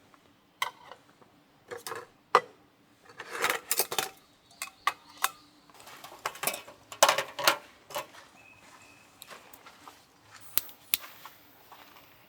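Irregular clinks and clatter of tableware and cooking utensils being handled and set down, with a busier burst of knocks twice.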